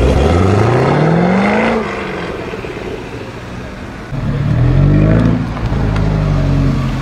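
A sports car's engine accelerating hard, its pitch climbing for nearly two seconds before it drops away. About four seconds in, the engine comes back in loud with a short rising rev, then settles to a steadier note.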